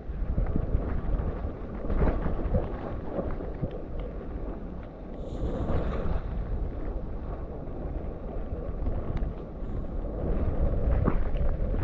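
Mountain bike descending a wet dirt trail: wind buffeting the microphone and tyres running over the wet, sandy ground, with scattered knocks and rattles from the bike over bumps and a brief hissing splash about five seconds in.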